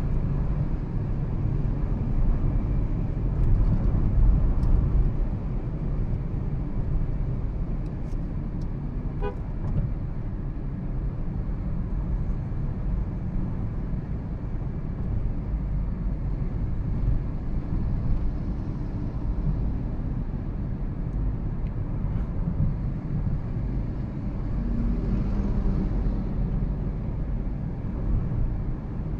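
2013 Toyota Prius being driven, with a steady road and tyre rumble throughout. A brief faint tone sounds about nine seconds in.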